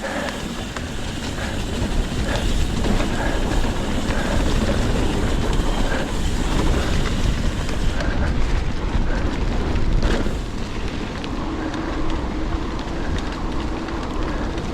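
Trek Fuel EX 7 full-suspension mountain bike rattling and clattering over a rough, wet trail while being ridden, with constant small knocks from the bike and tyre noise, and wind buffeting the helmet-camera microphone.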